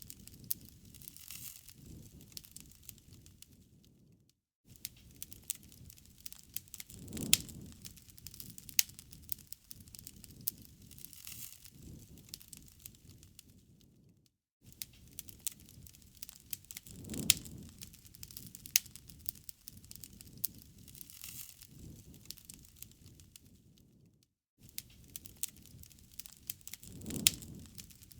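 Campfire burning with frequent sharp crackles and pops over a low rushing hiss of flame. The sound drops away briefly about every ten seconds and the same pattern starts again, as a looped recording.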